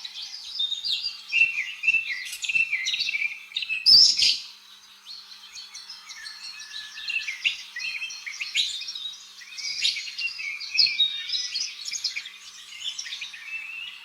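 Birds chirping and twittering in many quick, high short notes, with a brief louder sharp note about four seconds in.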